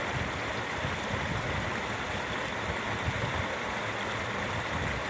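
A babbling brook: shallow water running and burbling over rocks in a steady rush.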